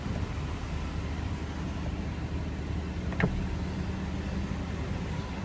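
Steady low hum inside a car's cabin, with one short click about three seconds in.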